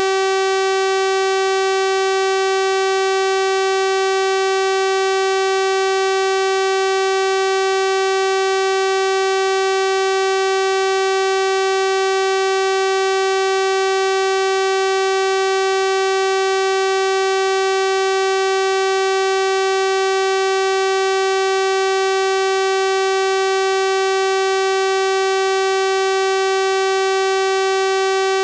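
Synthesized 384 Hz sawtooth-wave tone held steady and unchanging, a bright, buzzy electronic tone with many overtones.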